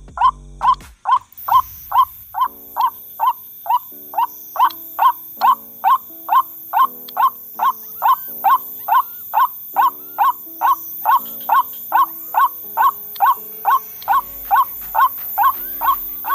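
White-breasted waterhen (ruak-ruak) call: a short hooked note repeated evenly about two and a half times a second, over background music.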